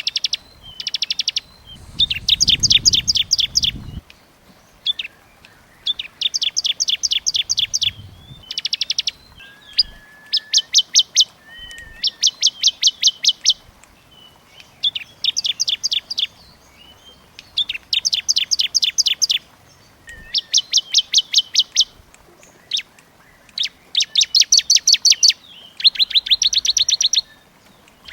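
Small songbird singing in quick runs of rapid, high, evenly repeated chip notes, each run lasting about a second, one run after another with short pauses.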